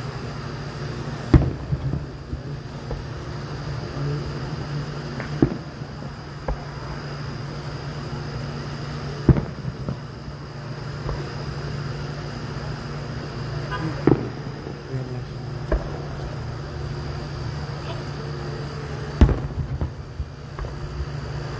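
Aerial fireworks bursting at a distance: about half a dozen sharp booms, spaced a few seconds apart, each with a short rumbling tail.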